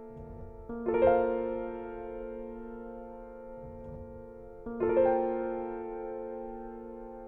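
Soft background piano music: two sustained chords, struck about a second in and again about five seconds in, each left to ring and fade.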